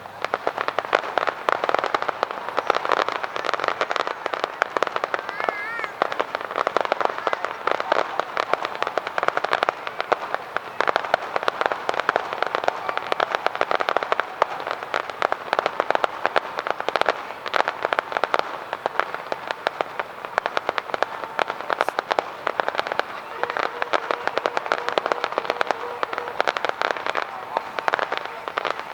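Aerial fireworks going off in a dense barrage: a continuous rapid rattle of sharp pops and crackles that starts suddenly and does not let up.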